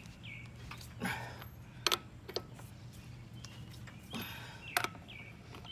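A few separate sharp clicks and knocks of a wrench being worked on a wheel's lug nuts during final tightening, over a low steady hum. Two short high chirps sound, one just after the start and one near the end.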